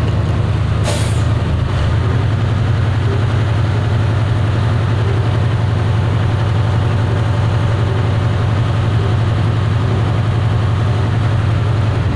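Heavy engine running steadily with a low drone, and a brief hiss about a second in.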